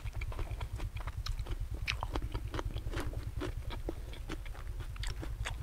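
A man chewing crunchy food close to the microphone, with many small crisp crunches in quick succession: a mouthful of raw shrimp in fish sauce with bitter gourd. A steady low hum runs underneath.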